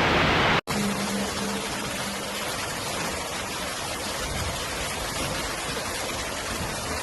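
Steady rush of moving water, with an abrupt cut about half a second in from a louder, hissier rush to a softer, even one.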